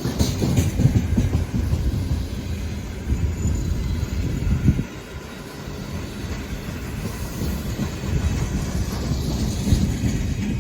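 Freight train wagons rolling past on the track, wheels clicking over the rail joints with a steady rumble that dips briefly about halfway through.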